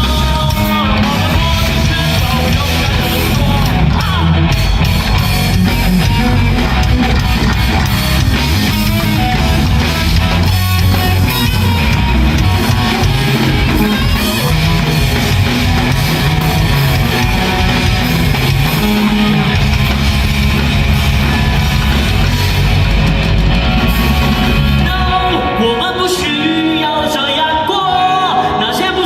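Rock band playing loudly live with a singer, heavy drums, bass and guitar. Near the end the low bass and drums drop away, leaving the voice over the higher instruments.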